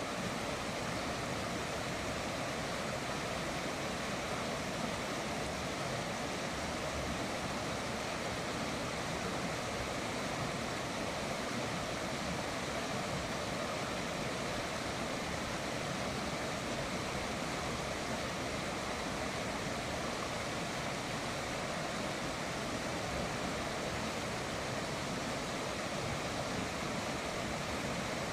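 Steady rushing of flowing river water, an even noise with no changes.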